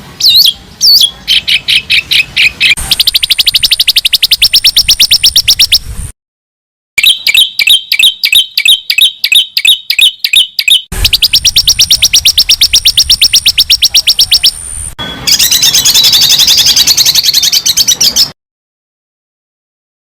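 Edited birdsong training recording (masteran): loud, fast strings of rapidly repeated high chirps and trills from small songbirds, in several spliced clips that start and stop abruptly. There is dead silence at about six seconds in and again near the end.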